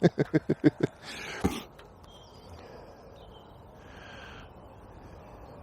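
A quick run of about seven sharp clicks in the first second, then a knock, then a crow cawing once about four seconds in, over a quiet outdoor background.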